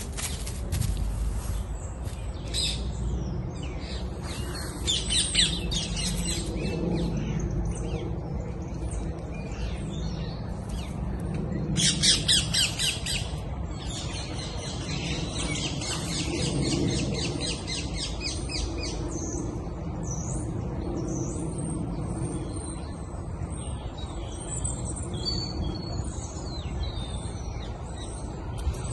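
Several birds calling: squawks and chirps, with a loud, rapid chattering call about twelve seconds in, over a steady low outdoor rumble.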